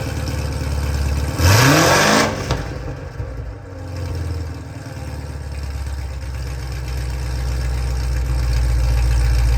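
2017 Corvette Z06's supercharged 6.2 L LT4 V8 idling through American Racing long-tube headers, a catless X-pipe and stock NPP mufflers, shortly after a cold start. About a second and a half in it is blipped once, the exhaust note rising sharply and dropping back within a second. It then settles back to a low idle that grows louder toward the end.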